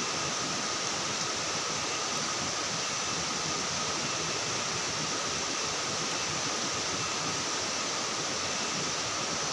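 Steady, even rushing of water, continuous with no breaks.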